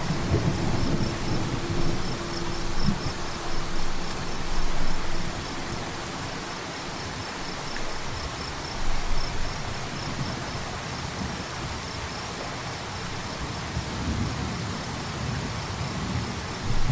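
Steady rain with low rumbling swells underneath, and a cricket chirping in a fast, even pulse. The hum of a quartz crystal singing bowl fades out over the first few seconds.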